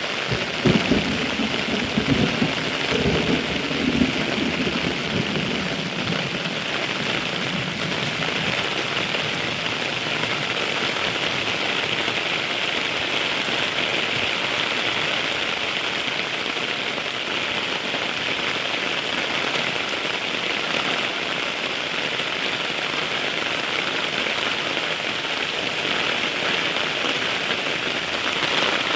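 Heavy rain falling with a steady hiss. In the first few seconds a burst of thunder cracks and rumbles over it.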